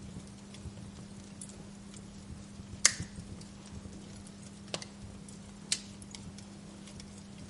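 Wood fire crackling in a fireplace: scattered small ticks and three sharper pops, the loudest about three seconds in, over a steady low hum.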